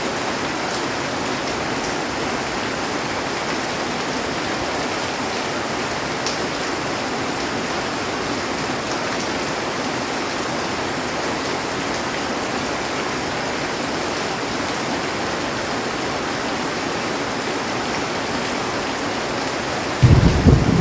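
Heavy rain pouring steadily on a metal roof, an even hiss. Just before the end a loud, low thunder rumble breaks in.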